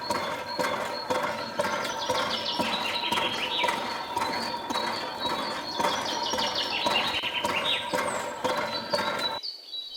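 Birds chirping in a series of short falling calls, mixed with frequent sharp clicks; the sound cuts out suddenly near the end.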